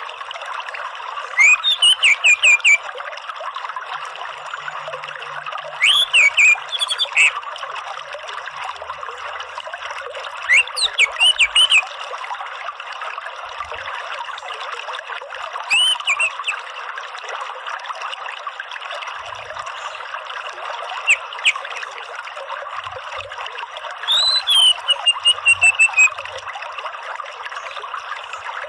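Orange-headed thrush giving short bursts of rapid, sharp call notes, about six bursts a few seconds apart, over a steady trickle of running water.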